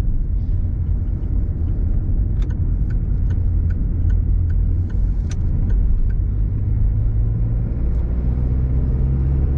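A car cruising on the road, heard from inside the cabin: a steady low drone of engine and road noise. A run of faint, light ticks comes through for a few seconds about two seconds in.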